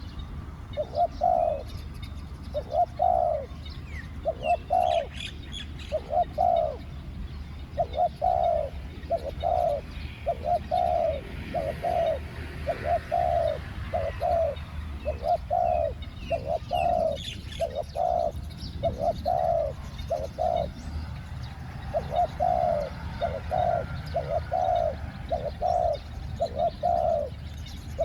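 Spotted doves cooing: a long run of short, low coo notes, about one to two a second with brief pauses between phrases. Faint chirps of small birds sit in the background.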